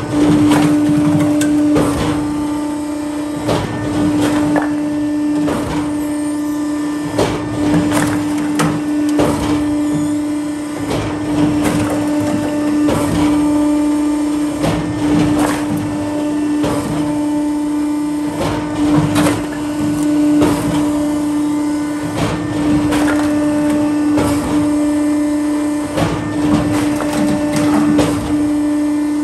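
Automatic hydraulic firewood splitter running: a steady, unchanging hum from its hydraulic power unit, with frequent irregular cracks and knocks as logs are split and pieces fall.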